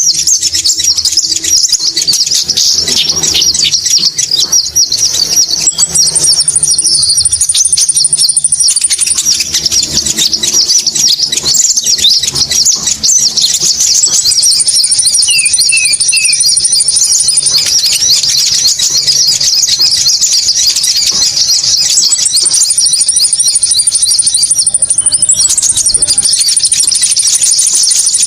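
Konin bird lure recording: dense, rapid high chirping and twittering that never lets up, played loud. A higher, even trill breaks in on top every several seconds and lasts about three seconds each time.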